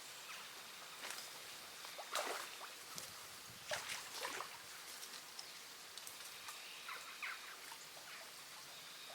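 Faint outdoor background hiss with a few brief rustles and clicks, the loudest about two seconds in and again around four seconds in.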